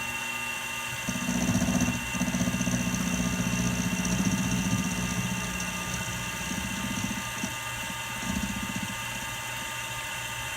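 Milling machine running with a steady motor whine, the cutter biting into the steel of a lathe knurling tool holder in louder stretches about a second in, from two to seven seconds, and briefly near eight seconds.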